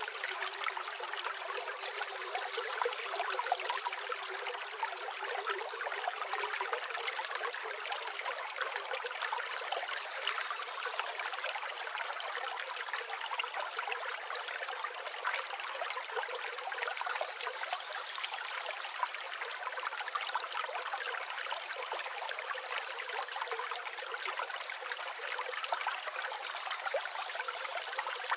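A river flowing steadily, a continuous rush and trickle of water with no low rumble. A few faint, short high chirps of birds come through it now and then.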